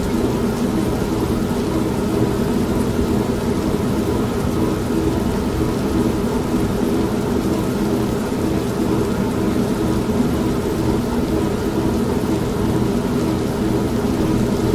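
Steady rain mixed with the constant hum and churning of an old manual (non-automatic) washing machine running.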